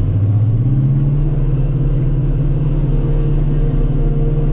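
Self-propelled forage harvester's diesel engine running under load while chopping corn, heard from the cab; its note rises slightly in the first second, then holds steady.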